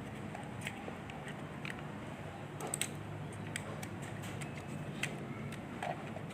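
Irregular small clicks and taps of hands handling a mini plastic toy drone, over a steady low hum.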